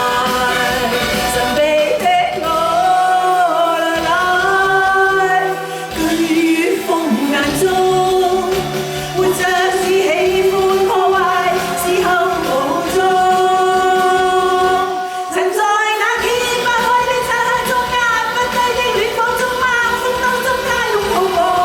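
A singer performing a Cantopop song with musical accompaniment, holding long sung notes that slide between pitches.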